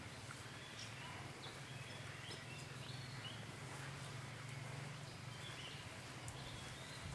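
Faint background ambience: a low steady hum with scattered short, high bird chirps.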